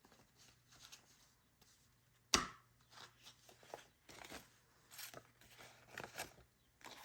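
Paper bills and cash envelopes being handled: light rustling and crinkling in short spurts, with one sharp snap about two and a half seconds in.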